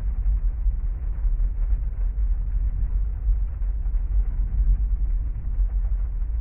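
Heavy rain heard from inside a parked car's cabin: a steady, muffled low rumble without distinct drops or thunder claps.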